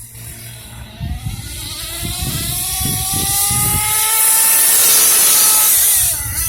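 Kyosho Mad Force nitro truck's KE25 two-stroke glow engine revving up, its pitch climbing steadily for several seconds and then falling away near the end.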